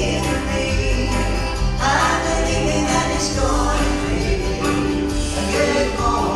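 Gospel vocal group singing with instrumental accompaniment and a steady bass underneath.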